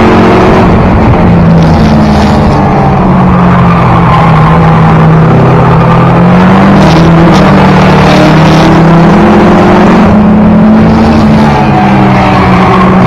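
Race car engine heard from inside the cabin, very loud, held at high revs, its pitch dipping and climbing again about halfway through and near the end as the driver lifts for the turns and gets back on the throttle. The car is a 1992 Toyota Celica GT with a four-cylinder engine.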